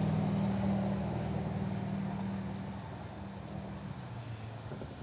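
A distant engine drone, a steady low hum that fades away over the first few seconds, over a steady high insect trill.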